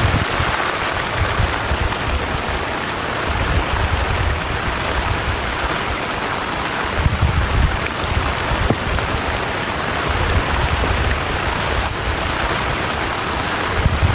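Heavy rain pouring steadily, with a low wind rumble that rises and falls now and then.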